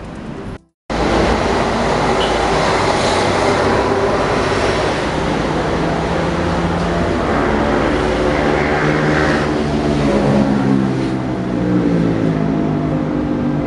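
Diesel-electric locomotive hauling passenger coaches on its approach, its engine running with a steady low drone over the rumble of the train on the track. The sound cuts out briefly just under a second in.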